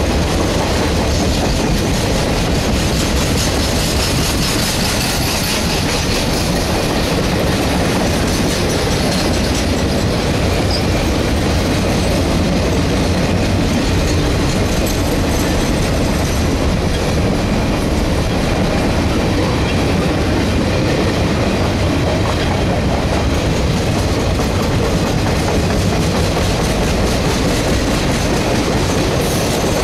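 Triple Crown RoadRailer trailers rolling past on their rail bogies: a steady, loud rumble of steel wheels on rail with a rapid clickety-clack running through it.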